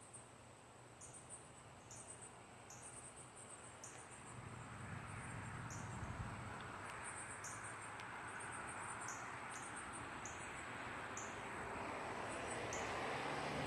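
Distant thunder rumbling, building gradually louder over several seconds, with insects chirping in short repeated pulses.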